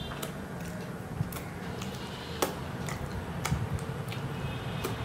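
Eating by hand and chewing, heard as a scatter of soft, irregular mouth clicks and smacks, about two a second, over a low steady background rumble.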